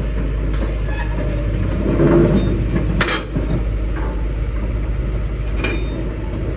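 Komatsu PC200-8 excavator's diesel engine running steadily, swelling louder about two seconds in, with three sharp metallic knocks spread through.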